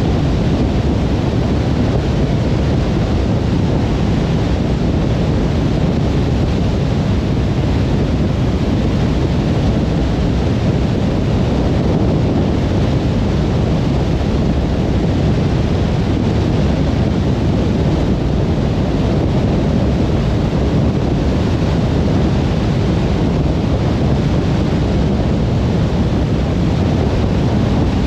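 Car driving at steady speed on a motorway: an even, low road and tyre rumble that does not change.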